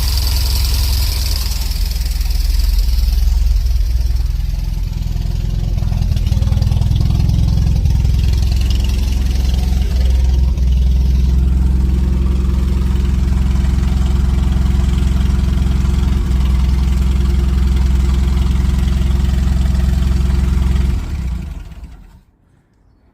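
UAZ Bukhanka van engine idling steadily, then stopping near the end.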